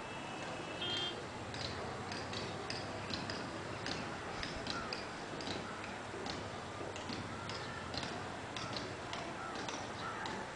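Birds chirping: a quick run of short, high chips at an uneven pace, with a brief trilled call about a second in, over a steady background hiss.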